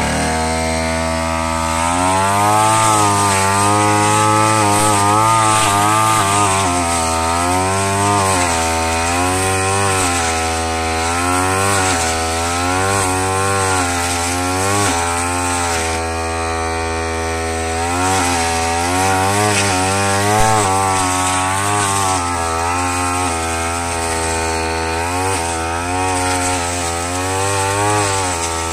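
Brush cutter's small petrol engine running hard while cutting rice straw, its speed rising and falling again and again as the blade takes the straw.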